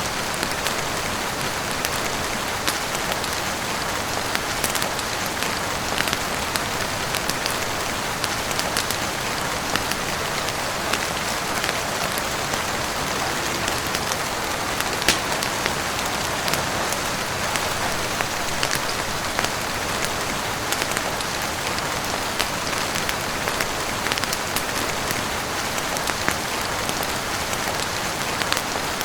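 Heavy rain falling steadily on a roof and window: a dense, even patter with scattered sharp clicks throughout.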